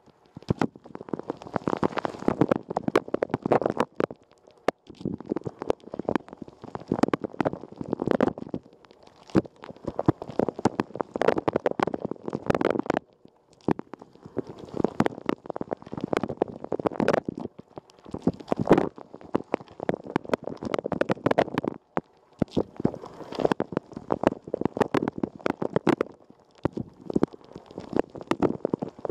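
Water from a Rosenlew dishwasher's rotating spray arm spattering and drumming inside the wash chamber, right on the microphone, during a wash cycle. It comes in surges a few seconds long, broken by short pauses roughly every four to five seconds as the jets sweep past.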